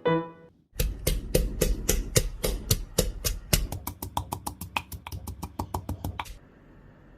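A knife chopping quickly on a cutting board, a steady run of sharp chops that speeds up, stopping about six seconds in.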